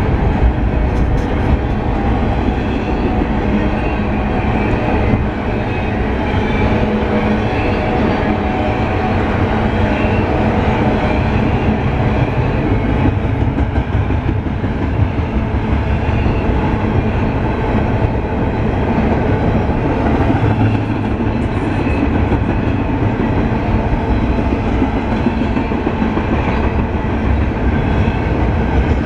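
Double-stack intermodal container train rolling past, its steel wheels running on the rails in a steady, unbroken noise.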